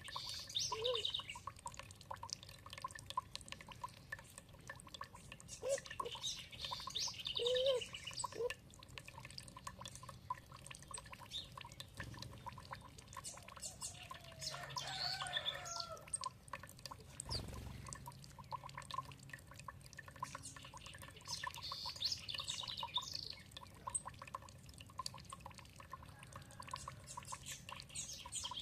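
Songbirds singing in short phrases every few seconds over trickling, dripping water.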